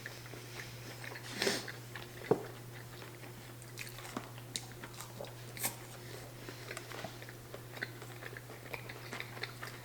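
Close-miked mouth sounds of chicken nuggets being bitten and chewed: many small wet clicks, with a louder burst about one and a half seconds in, over a faint steady low hum.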